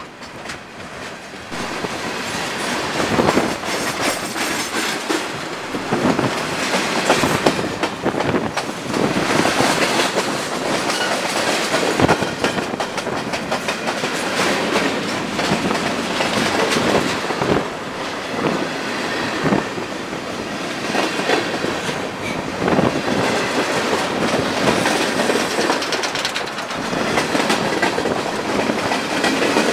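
Freight cars of a Canadian National manifest train rolling past close by: a steady rumble of steel wheels on rail, with clickety-clack as the wheels strike the rail joints.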